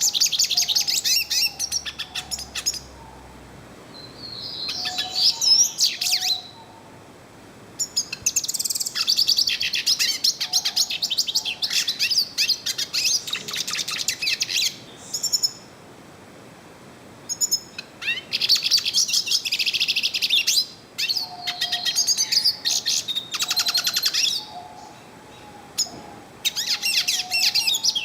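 Yellow-faced siskin (pintassilgo-do-nordeste) singing: long bouts of fast, high twittering song with short pauses between them.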